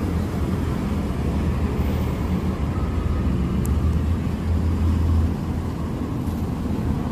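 Steady low hum of a motor vehicle's engine running, holding an even pitch.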